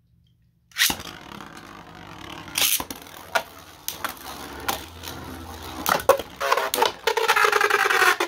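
Two 3D-printed plastic Beyblade tops are launched into a stadium and battle in it. After a moment of silence they land with a sudden loud clatter, then spin and rattle with sharp clashes every so often. The hits become a dense, loud run of rapid collisions over the last couple of seconds.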